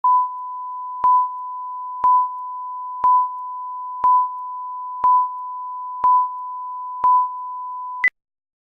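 Steady 1 kHz line-up test tone with a louder beep each second, eight in all, ending in one short higher beep about eight seconds in, then cutting off: a broadcast countdown leader ahead of a TV commercial.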